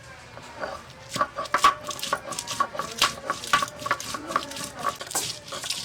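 Metal kitchenware clinking and knocking: utensils and dishes being handled, a quick irregular run of light knocks with a faint metallic ring.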